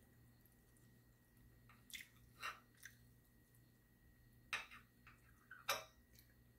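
A person chewing steak with the mouth close to the microphone: a handful of soft, wet smacks and clicks, the loudest two in the second half, over a faint steady hum.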